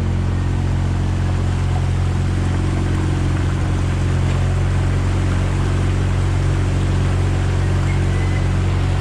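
Vehicle engine running steadily with an even low hum that holds one pitch throughout.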